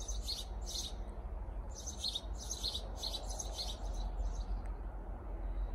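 Small birds chirping in quick runs of high calls, in several bursts with short gaps, over a steady low rumble.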